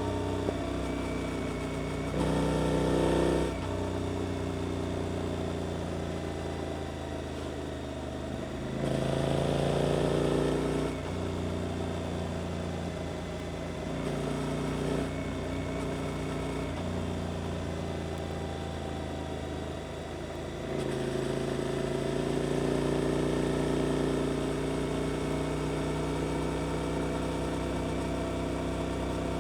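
Suzuki GSX-8S parallel-twin engine through an Arrows aftermarket exhaust under way, its note rising and falling as the throttle opens and closes. Louder pulls come about two seconds in, around nine seconds in, and from about twenty-one seconds on.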